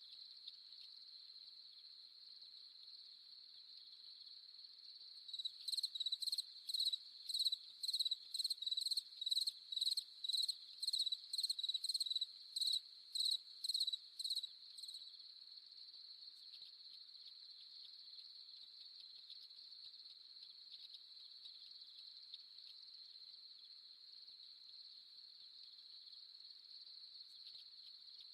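Steady high-pitched trilling of a cricket chorus at night. From about five seconds in to about fifteen seconds, a nearer insect adds a run of loud, regular chirps, about two a second, then stops.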